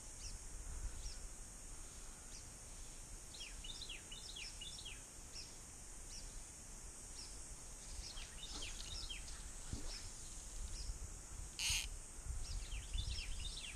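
Birds calling in the trees: many short, quick chirps that sweep down in pitch, in scattered clusters, over a steady high hiss. A brief noisy burst comes near the end.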